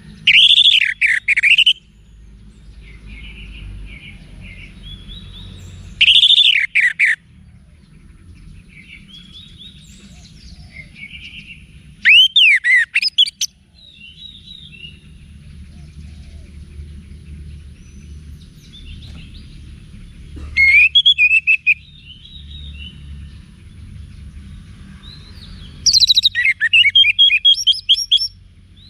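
Orange-headed thrush singing loud phrases of rapid, swooping whistled notes, five phrases each lasting a second or two, spaced about six seconds apart. Fainter chirps fill the gaps, over a steady low hum.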